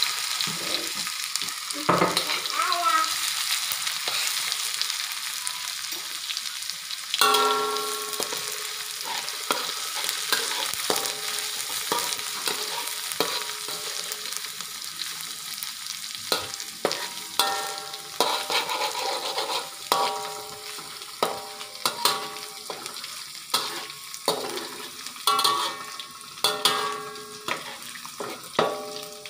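Chopped garlic, shallots and dried anchovies sizzling in hot oil in a metal pan, stirred with a metal spatula. From about seven seconds in, the spatula repeatedly knocks and scrapes against the pan with short ringing clinks, most often near the end.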